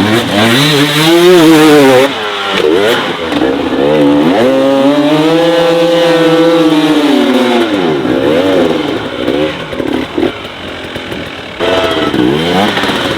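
Dirt bike engine revving up and down over and over, held at high revs for a few seconds in the middle before dropping back, and climbing again near the end.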